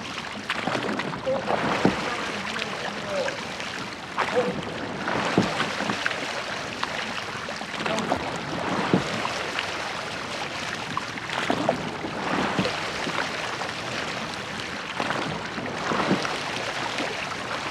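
Rowing boat under way: oars knocking in their oarlocks at an uneven pace, about once a second, over a steady rush of water.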